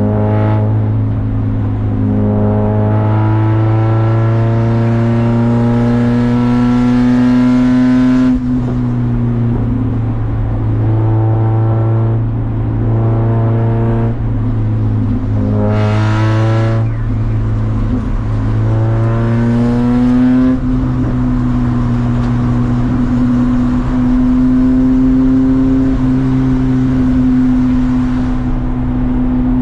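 Race car engine pulling hard through a lap, its pitch climbing under acceleration and dropping sharply at gear changes or lifts several times, over a steady low drone.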